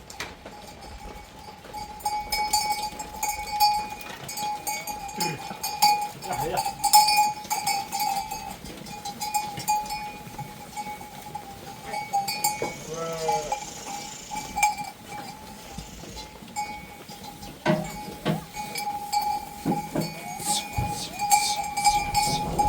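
Bells on a flock of sheep and goats clinking and ringing continuously as the animals move. A single bleat rises out of the bells about thirteen seconds in.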